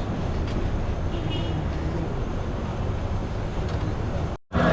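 Steady low background rumble of a busy place, with traffic-like noise and faint indistinct voices; it cuts off abruptly near the end.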